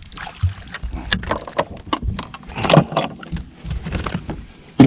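Splashing water and knocking as a hooked bass is netted and brought into a fishing boat, with a sharp thump near the end.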